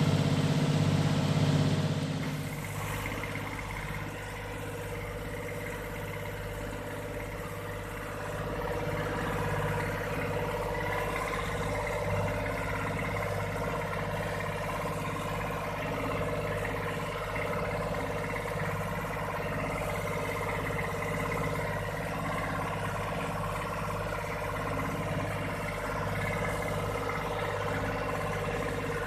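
An engine running steadily at an even speed, a little louder from about eight seconds in, after a sudden change about two seconds in.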